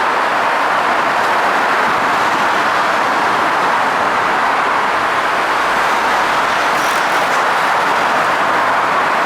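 R160 subway train running on the rails at speed: a steady, loud rolling noise of wheels on track without breaks or changes.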